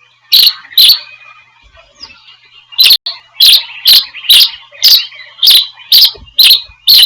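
A bird calling in a series of sharp, short chirps: two close together near the start, then a steady run of about two a second.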